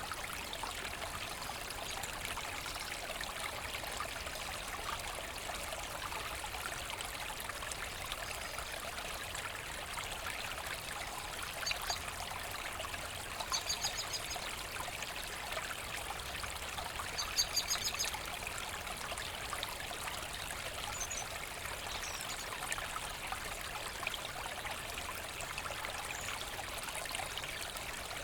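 A forest brook running and trickling over stones in a steady rush. Three times, in the middle, short high chirps stand out above it.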